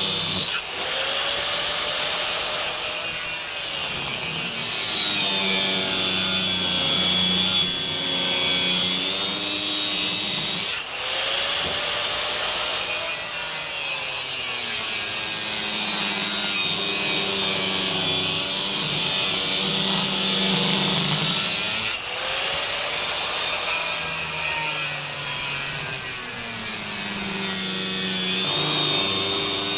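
Power tool cutting through a ceiling fan's motor housing, running continuously with its pitch sagging and recovering under load. It eases off briefly three times, about every eleven seconds.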